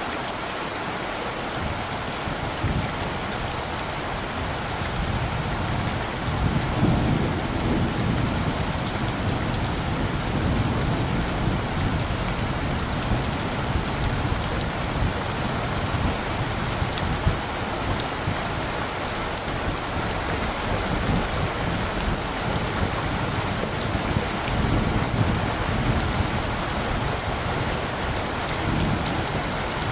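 Steady rain falling, with low rumbles of distant thunder swelling up several times, most strongly about a quarter of the way in and again near the end.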